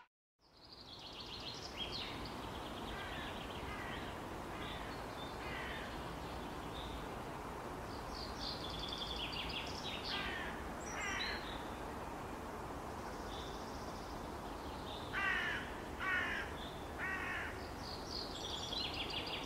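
Birds calling and chirping over a steady outdoor background hiss, with three louder harsh calls in a row a few seconds before the end.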